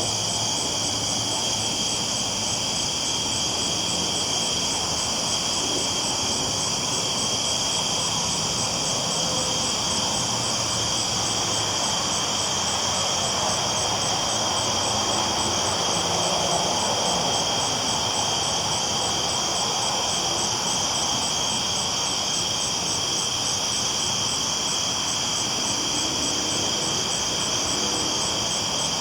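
A train rolling steadily along the tracks, with crickets chirping in a fast, even pulse high above it.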